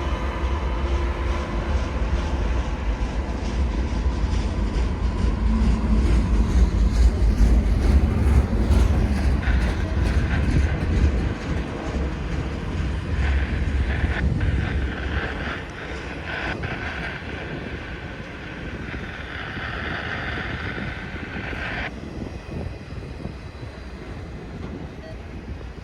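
A freight train rolling past on the main line. Its low rumble builds to a peak about a third of the way in, then fades, with some clicking of wheels over the rails. A higher hiss or squeal comes and goes over the second half and stops abruptly near the end.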